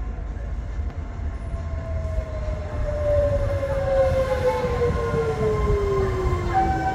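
A train rolling through the station: a low rumble that grows louder, with a whine that falls slowly in pitch over the last few seconds.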